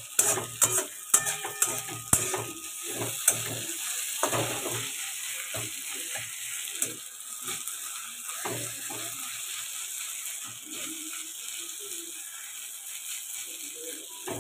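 Chopped onions and ginger-garlic paste frying in a metal kadai over a high gas flame, sizzling steadily. A metal spatula scrapes and knocks against the pan, most often in the first few seconds.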